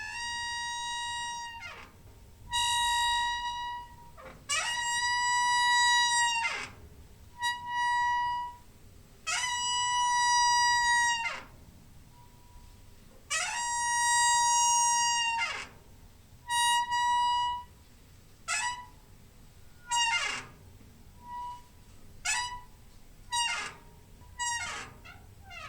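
Squeaking door hinge: a series of high squeaks, each sliding up into one held pitch and back down. The first ones are drawn out for one to two seconds, and from about the middle they come shorter and quicker.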